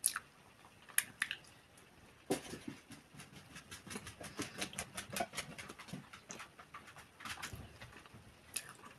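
Chewing a mouthful of mashed potato with the mouth closed: soft wet smacks and mouth clicks, a few at first and then a quick run of them from about two seconds in.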